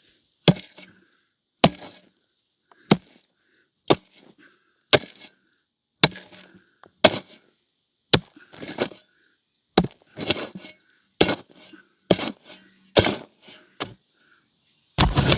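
Hand tool chopping, striking about once a second, with a short rasp after some blows and a longer, louder crash near the end.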